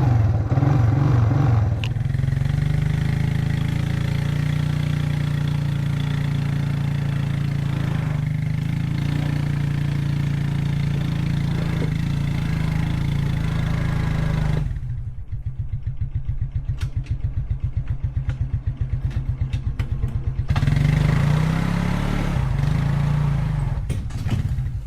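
ATV (four-wheeler) engine running steadily. About halfway through it drops to a slow, evenly pulsing idle for several seconds, then picks up again near the end.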